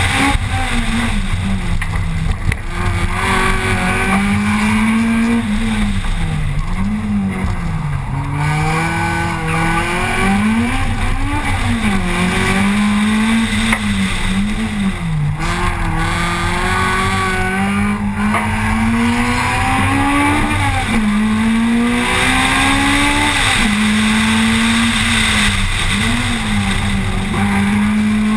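Honda Civic VTEC engine at full race revs, climbing and dropping in pitch over and over as the car accelerates hard and lifts off between turns. Wind rushes steadily over the outside-mounted camera.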